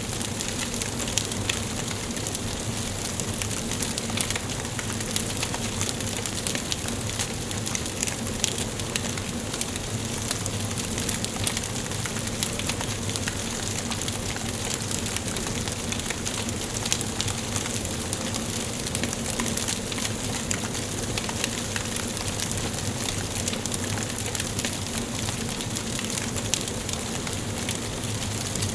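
Wood fire burning in a fireplace: a steady hiss with frequent small, sharp crackles and pops from the burning logs.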